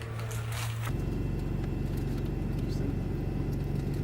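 A vehicle engine running with a steady low rumble and hum that cuts in abruptly about a second in, replacing faint room sound and voices.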